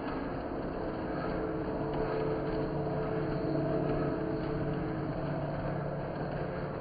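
Lionel O-gauge electric model trains running around the track: a steady motor hum over rolling wheel noise, its pitch drifting slightly in the middle as the speed changes.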